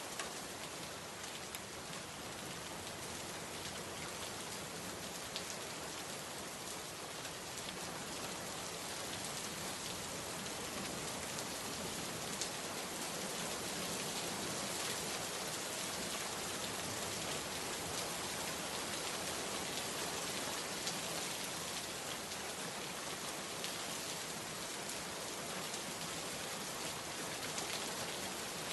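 Heavy steady rain falling on hard surfaces: a dense hiss of rainfall with countless individual drops ticking through it.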